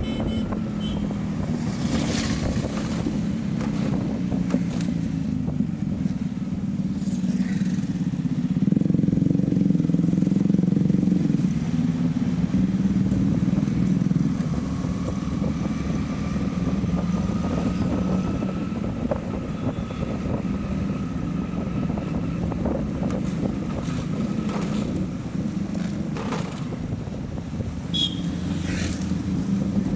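Motorcycle engine running steadily while riding, getting louder for a couple of seconds about nine seconds in.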